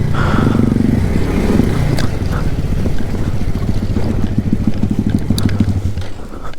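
Alpha moped's small single-cylinder four-stroke engine running steadily under way, just restarted after stalling. The engine note fades about six seconds in.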